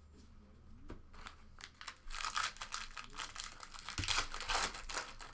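A foil trading-card pack wrapper being torn open and crinkled, with a few light clicks first and then a dense crackle that is loudest near the end.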